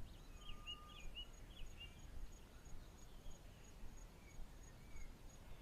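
Faint bush ambience: scattered short bird chirps and a brief whistle early on, over a high insect call pulsing about three or four times a second.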